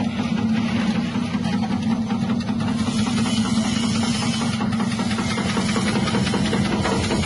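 Electric chip-slicing machine running, its 180-watt motor driving the cutting blade with a steady hum and a fast, even rattle.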